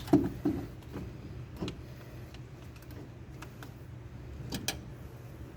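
A few sharp knocks and clicks from hands working on a car door's power window assembly, the loudest pair right at the start and another pair about four and a half seconds in, over a steady low hum.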